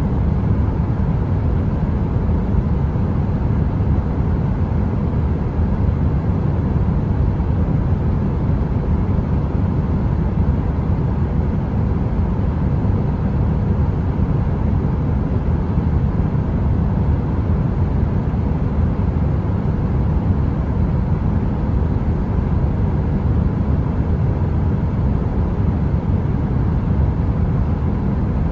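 Space heater running: an unbroken deep rushing noise, like brown noise, with a faint steady hum over it.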